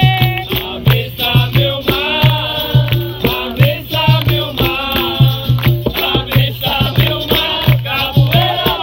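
Capoeira roda music: voices singing over a steady low drum beat, with a shaken rattle and plucked or struck pitched notes.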